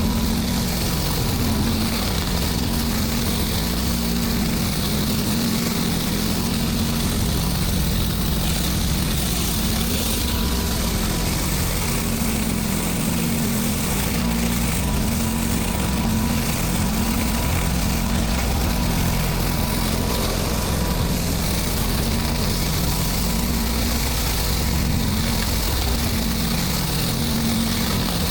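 Gas engine of a pressure washer running steadily under load, its pitch wavering slightly.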